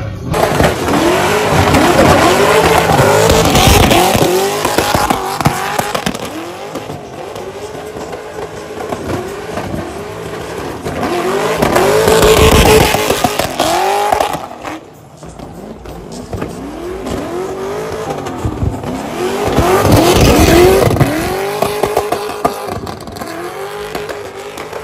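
V8 drift cars revving up and down again and again, with tyres squealing. The sound swells loudest three times, about three, twelve and twenty seconds in.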